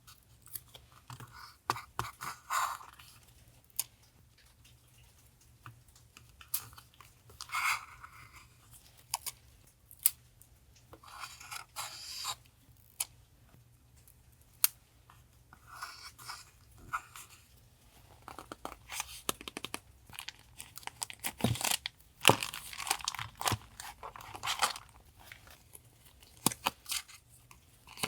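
Paper being handled for collage journaling: intermittent rustling and crinkling with small sharp clicks and taps, busiest near the end.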